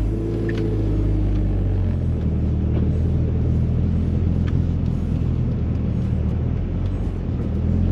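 Mitsubishi Lancer Evolution X's turbocharged 2.0-litre four-cylinder running at low revs as the car pulls away slowly, heard from inside the cabin as a steady low drone.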